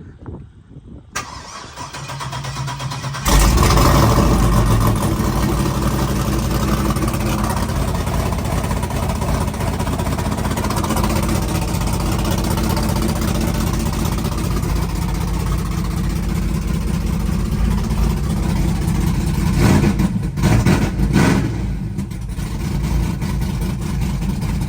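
The Cadillac burnout truck's engine cranks for about two seconds, catches about three seconds in and runs loud and steady, with a couple of short blips of throttle near the end. It starts without trouble after sitting, so the battery is not dead.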